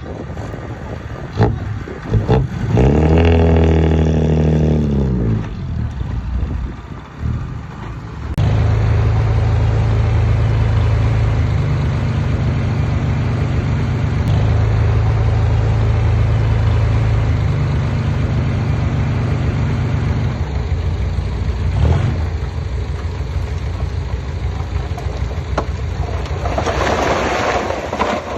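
Heavy diesel engine of earthmoving machinery revving up and dropping back, then running steadily under load with small shifts in pitch. A rushing noise rises near the end.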